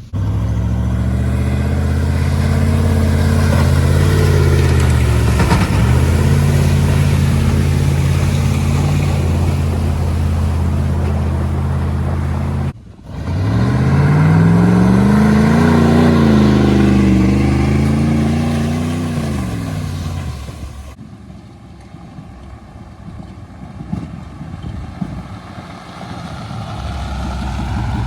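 The 1996 GMC K1500's 5.0-liter Vortec V8, through a custom exhaust, runs loud at a steady pitch. It breaks off suddenly, then revs up and back down over several seconds, and drops to a much quieter, lower running sound.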